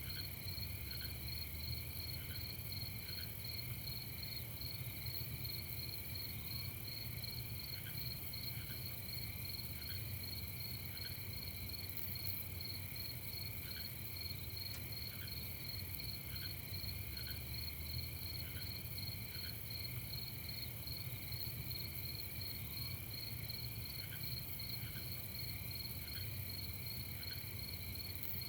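Crickets chirping in a steady night chorus: a fast, even pulsing trill, with scattered short, lower-pitched chirps about once a second and a faint low rumble underneath.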